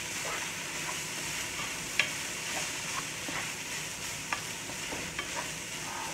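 Ground beef and sliced hotdogs sizzling in oil in a pot, stirred with a wooden spatula. The steady sizzle is broken by occasional sharp clicks of the spatula against the pot, the loudest about two seconds in.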